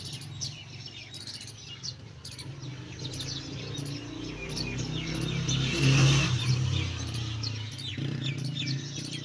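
Small birds chirping repeatedly over a low rumble that swells to its loudest about six seconds in and then fades.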